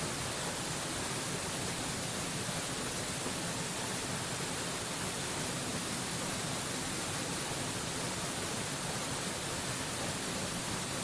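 Waterfall rushing: a steady, even hiss of falling water, with no change in level or pitch and the most energy in the upper range.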